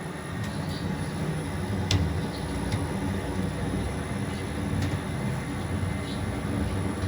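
A machine running with a steady low rumble, with a few sharp clicks, the loudest about two seconds in.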